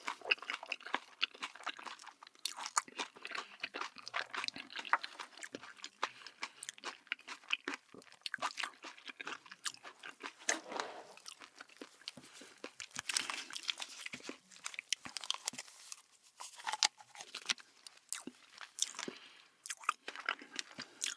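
Close-miked chewing of crunchy food: a person biting and chewing, with a dense, irregular run of crisp crunches.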